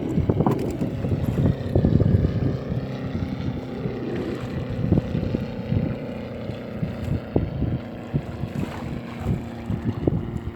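A small fishing boat's engine running steadily, with irregular knocks and clatter as the crab net is hauled in over the boat, and wind buffeting the microphone.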